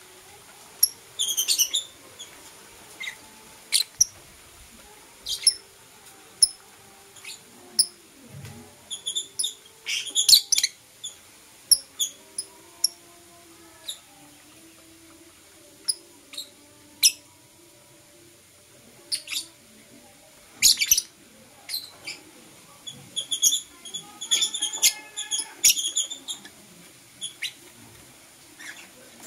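Lovebirds chirping: short, sharp, high-pitched chirps coming singly and in quick clusters, busiest about ten seconds in and again in the last third.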